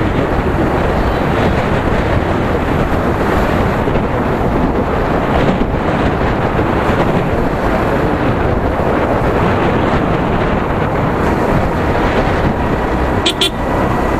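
Steady wind rush over the microphone and road noise from a moving motorcycle. A short high-pitched beep sounds near the end.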